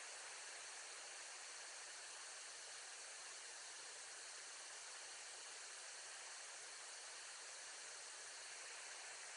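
Faint steady hiss with no distinct sounds in it; no eagle calls are heard.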